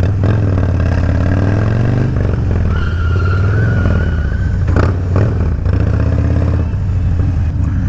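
Harley-Davidson Low Rider V-twin motorcycle engine running and revving as the bike is slid, with a thin high squeal for about a second in the middle from the rear tyre sliding.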